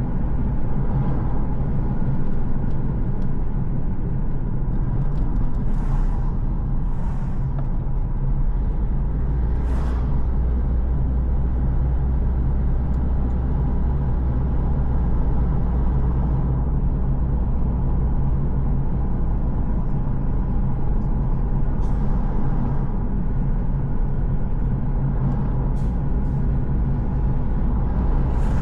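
Car driving along a road: a steady low rumble of engine and tyres, with a few brief rushes of noise.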